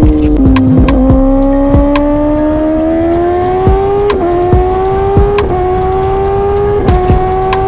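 Sportbike inline-four engine at high revs under hard acceleration, its pitch climbing steadily and dipping briefly at each quick upshift, four times, with music over it.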